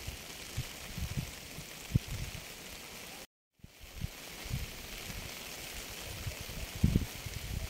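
Steady rain hiss with irregular low thuds underneath, broken by a short gap of complete silence about three seconds in.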